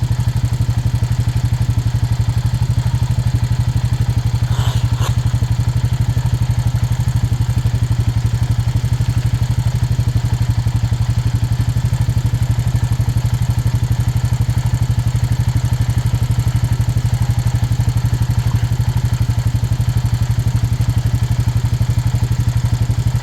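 Four-wheeler engine idling, a steady low hum with an even fast pulse. Two faint clicks sound about five seconds in.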